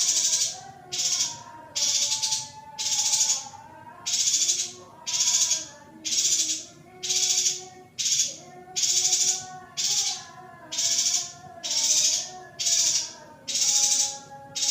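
Recorded calls of a female yuhina, played as a training track: short buzzy, rasping notes repeated evenly at about one and a half a second. Fainter, wavering lower tones run beneath them.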